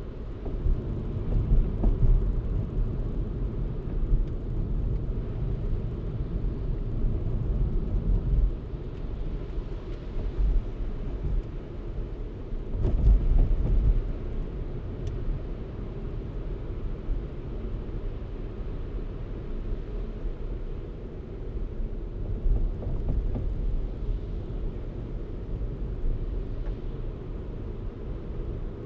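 A car driving: a steady low rumble of engine and tyres on the road, swelling louder for a moment about two seconds in and again near the middle.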